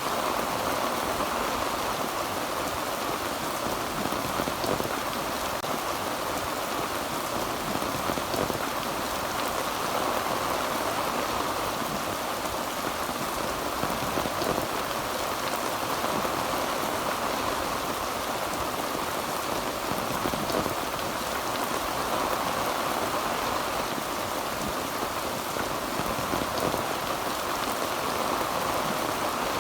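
Heavy rain falling steadily on a tin roof, an even hiss of drops that holds unchanged throughout.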